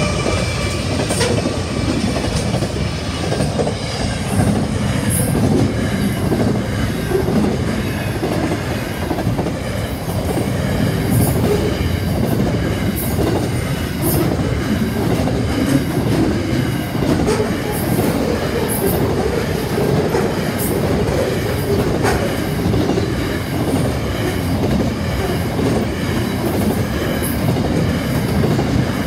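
A freight train's double-stacked container wagons rolling past, a steady heavy rumble of steel wheels on rail, with sharp clacks about once or twice a second as the wheels cross rail joints.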